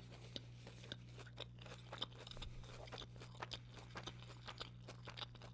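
Close-miked chewing of a crispy breaded chicken tender: soft irregular crunches and wet mouth clicks, a few each second, over a faint steady low hum.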